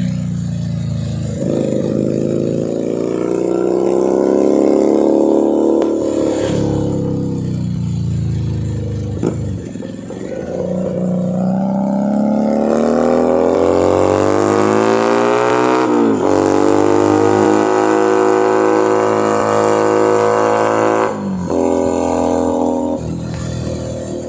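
Keeway SCR 250V motorcycle engine and exhaust under way, accelerating through the gears. The revs rise steadily, then fall sharply at each of several gear changes.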